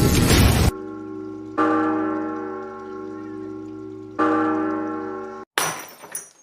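A loud noisy burst that cuts off, then a bell-like chime ringing and fading, struck three times. Near the end a short crash.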